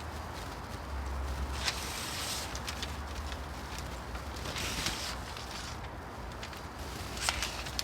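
Self-adhesive aluminium foil tape crinkling and rustling as it is unrolled, peeled and pressed on, with a few short sharp crackles, the loudest near the end.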